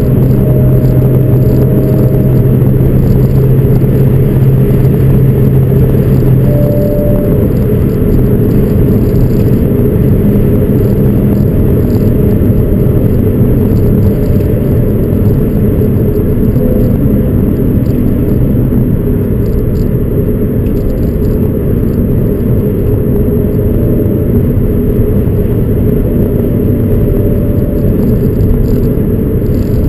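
Audi B6 S4's 4.2 V8, fitted with JHM headers and a Fast Intentions exhaust, droning steadily under way, with road rumble. A strong low hum drops away about seven seconds in, and the engine carries on at a steady note.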